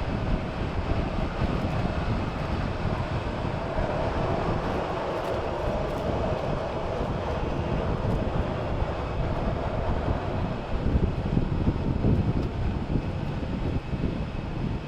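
Jet airliner engines rumbling steadily, with a mid-pitched drone strongest in the middle seconds.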